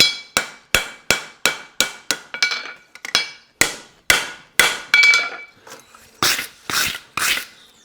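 Farrier's hammer striking a hot steel horseshoe on an anvil, about three quick blows a second and then slower, spaced blows, several leaving a short metallic ring. The blows are cleaning up the shoe's edge.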